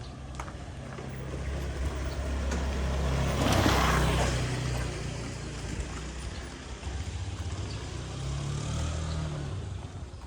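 Motor vehicle engine passing close by, loudest about four seconds in, then a second engine sound near the end.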